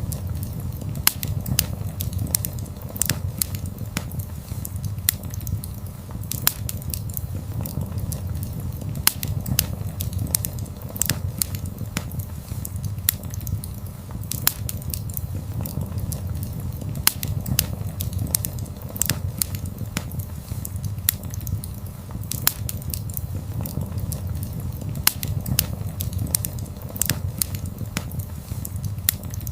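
Wood fire burning: a steady low rumble with frequent sharp crackles and pops at irregular intervals.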